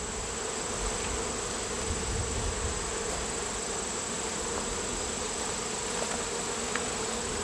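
Honeybees from an open hive buzzing in a steady, continuous hum.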